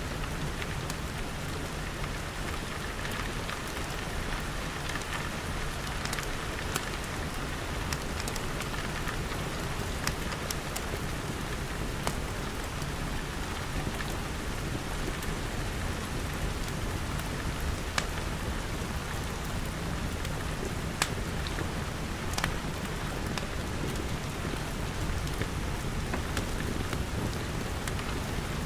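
Steady rain pattering on glass, with a few sharp crackles from a wood fire scattered through it.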